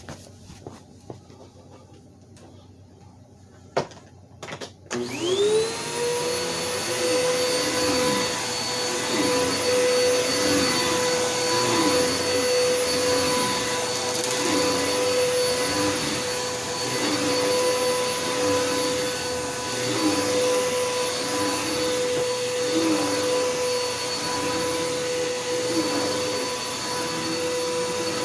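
A few clicks, then a Bissell Helix Power upright vacuum cleaner is switched on about five seconds in. Its motor spins up to a steady whine and keeps running while it is pushed over carpet, with a lower note wavering in a regular rhythm about once a second.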